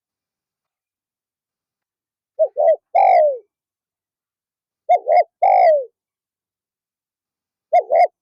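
Spotted dove cooing: three calls about two and a half seconds apart, each two short coos followed by a longer coo that falls in pitch.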